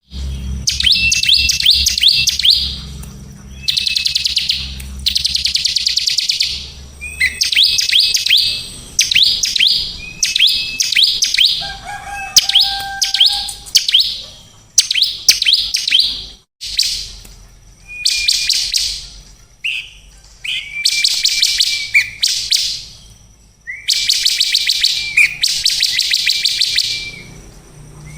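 A songbird singing in repeated bursts of fast, high, rattling trills, each a second or two long with short pauses between, some opening with a short held whistle.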